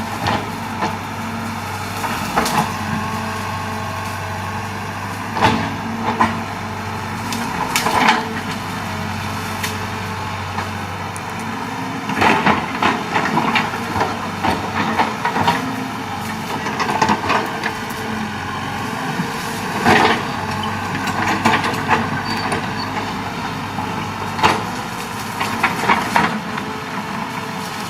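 Excavator's diesel engine running steadily, with irregular knocks and cracks as it works.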